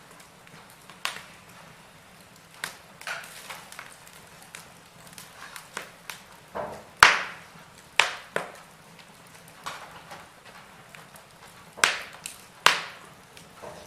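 Wood fire in a fireplace crackling, with irregular sharp pops; the loudest come about seven seconds in and again near the end.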